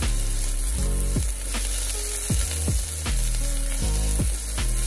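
Minced ginger, garlic, shallots and green onions sizzling in hot oil in a nonstick pan as they sauté, over background music with a heavy bass line.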